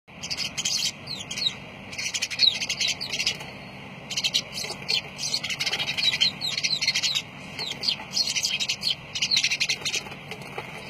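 Lovebirds chirping and chattering in quick bouts of high, rapid chirps, each about a second long with short pauses between.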